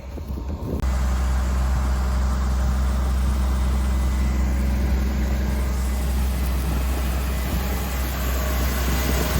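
Case 385 tractor's turbo diesel engine running steadily, a low even drone that starts abruptly about a second in.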